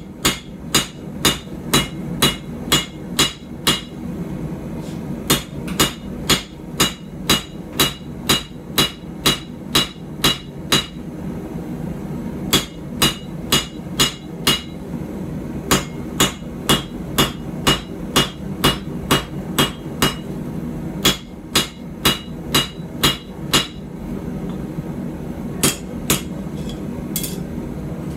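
Hand hammer striking a puukko blade on the anvil, about two to three blows a second in runs of several seconds with short pauses, each blow leaving a bright ring: drawing out and narrowing the blade. A steady low rumble runs underneath.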